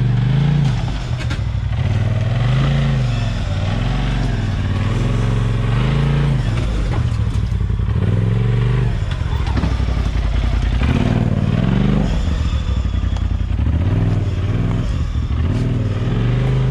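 Side-by-side UTV engine revving up and down again and again under throttle over a rough trail, its pitch rising and falling every second or two.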